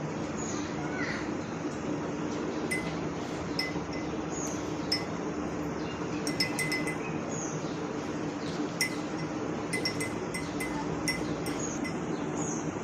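Scattered light clinks and brief high chirps over a steady low hum.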